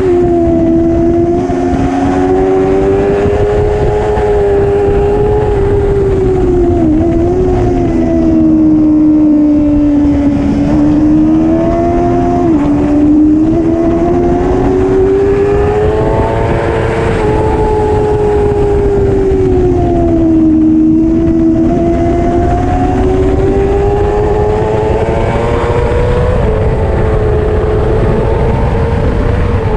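Superbike racing motorcycle engine running hard at high revs, its pitch rising and falling continuously with the throttle, with a couple of quick dips, over heavy low rushing noise.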